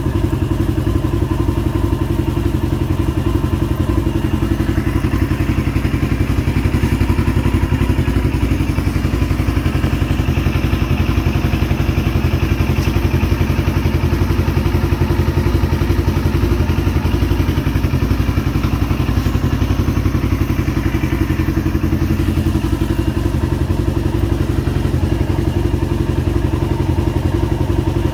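CFMOTO motorcycle engine running steadily at an even speed, with no revving.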